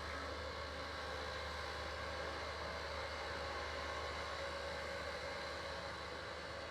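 Steady grinding noise from track-grinding machinery working on a narrow-gauge railway line, an even hiss with a few faint steady tones that does not change.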